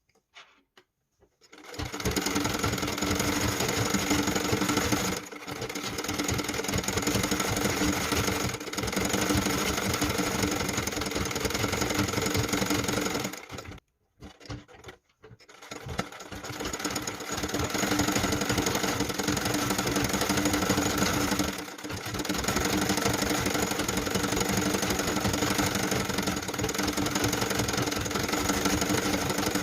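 Sewing machine stitching embroidery at a steady speed, starting about two seconds in. It stops briefly around the middle with a few small clicks, then runs on.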